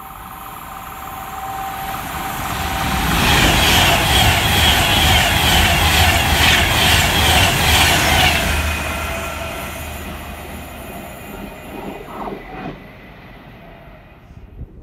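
Avanti West Coast express train passing through without stopping. The sound builds as it approaches and peaks for about five seconds with a fast, rhythmic clatter of wheels on the track and a deep rumble. It then fades as the train moves away.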